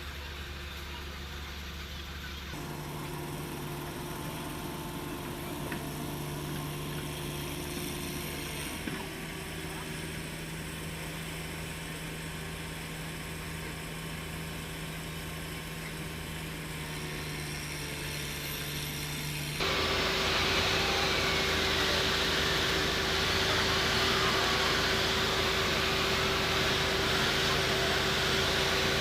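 Engine running steadily, with its hum jumping in pitch at sudden cuts a few seconds in and again around nine seconds in. About twenty seconds in, a louder steady noise with a hiss takes over.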